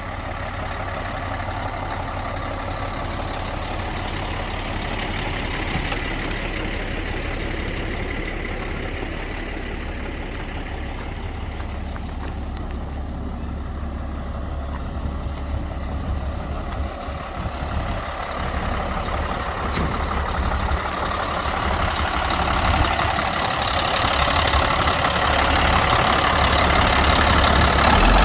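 2000 Peterbilt 378 truck tractor's diesel engine idling with a steady low hum. It grows louder over the last few seconds.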